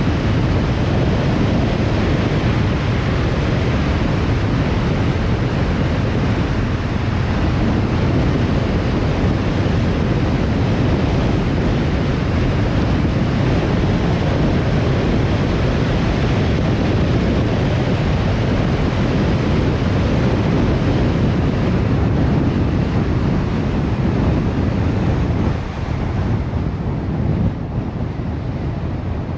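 Steady road and wind noise of a car driving, a continuous rush with most weight in the low end. About four seconds before the end it drops and turns duller, as the car eases off.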